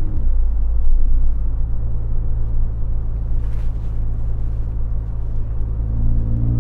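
Ford F-150 EcoBoost pickup driving: a steady low engine and road drone, with the engine note beginning to climb near the end as it picks up speed.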